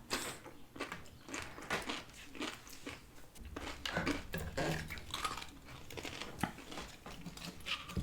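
Close-miked chewing and crunching of crisp fried tortilla with shrimp aguachile: irregular crisp crunches with wet chewing in between.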